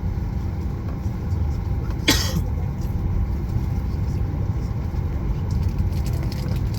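Steady low rumble inside the cabin of a Boeing 737-8200 during pushback. A brief sharp noise cuts through about two seconds in.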